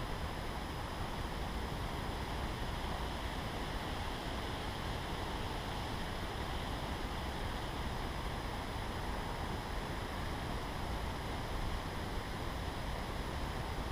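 Forest ambience: steady wind through the trees, an even rushing hiss over a low rumble, unchanging throughout, with faint thin high tones held steady above it.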